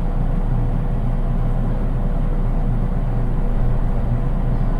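Running noise inside a JR East 183 series electric train, heard in the unpowered driving trailer car KuHa 183-1528: a steady low rumble of wheels on track with a faint constant hum, subdued since this car has no motors of its own.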